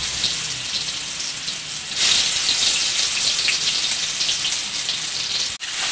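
Ground shallot, garlic, cumin and pepper paste sizzling and crackling in hot oil, getting louder about two seconds in.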